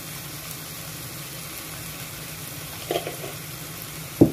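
Chicken and shrimp in soy and oyster sauce sizzling steadily in a wok-style frying pan. A brief clatter comes about three seconds in, and a single sharp knock, the loudest sound, just before the end.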